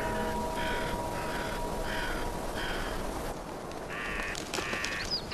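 Crows cawing: a run of short caws about two a second, then a few longer caws near the end.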